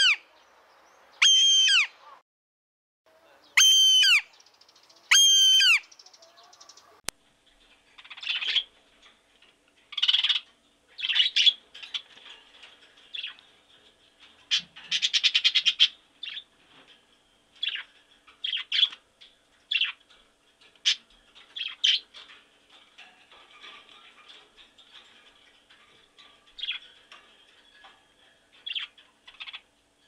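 A hawk gives four loud, high calls that fall in pitch, spaced one to two seconds apart. About seven seconds in the sound cuts abruptly to small parrots chattering and squawking in quick, irregular bursts.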